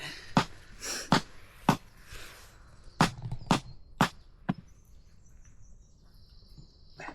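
Small hatchet chopping firewood: about seven sharp strikes in the first four and a half seconds, then the chopping stops.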